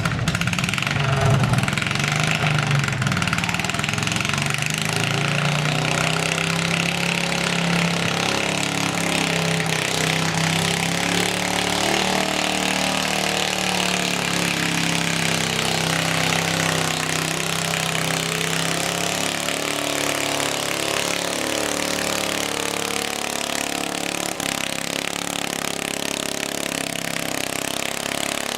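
Engine of a modified pulling lawn tractor running at a steady, near-idle speed for most of the stretch, its note shifting about two thirds of the way through.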